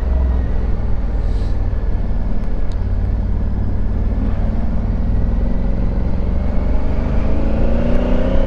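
Honda Africa Twin Adventure Sports parallel-twin engine running on the move, over heavy wind and road rumble on the microphone; the engine note rises steadily over the last few seconds as the bike accelerates.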